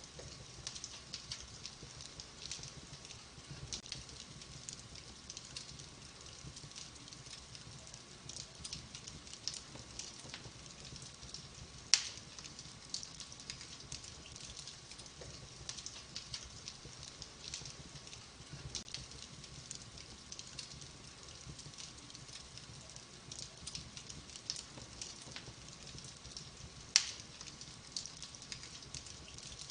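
Wood fire crackling in a fireplace: a steady run of small crackles, with two sharp, louder pops, about twelve seconds in and again near the end.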